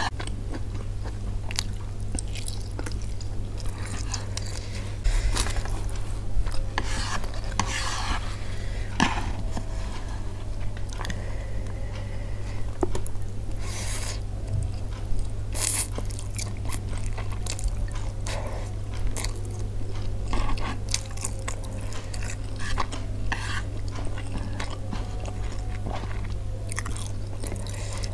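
Close-miked chewing and biting of Indomie goreng fried instant noodles, with many irregular wet clicks and mouth noises, over a steady low hum.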